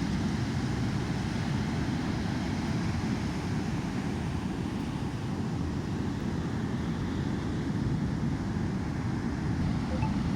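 Steady low rumble of breaking surf and wind, with wind buffeting the microphone.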